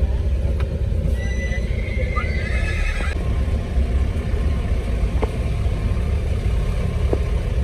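A horse whinnying once, for about two seconds starting about a second in, over a steady low rumble.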